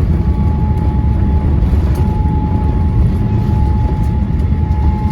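Steady low rumble of an airliner heard from inside the cabin, with a thin, constant whine above it.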